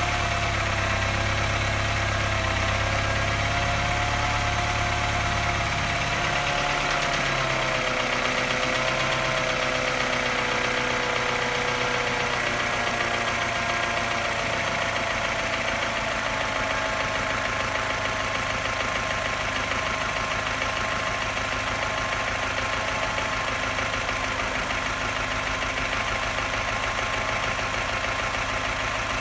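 Engine idling. About six seconds in its revs drop over several seconds, and at the lower idle it runs on with a louder tapping and a slight misfire.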